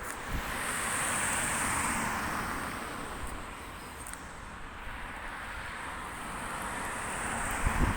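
Road traffic: vehicles passing by, their noise swelling about a second in and again near the end, with a faint steady high-pitched whine.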